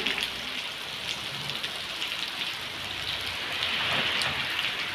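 Steady rain falling, an even hiss of drops with many small individual drop ticks.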